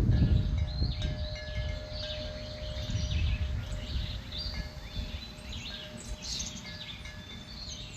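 Several small birds chirping and twittering in short, overlapping calls, over a low rumbling background noise that is strongest in the first second or two.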